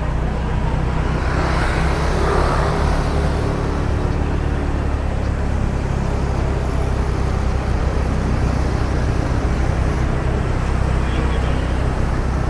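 Car running on a city street in traffic: a steady low drone of engine and road noise, with a brief swell of passing traffic about two seconds in.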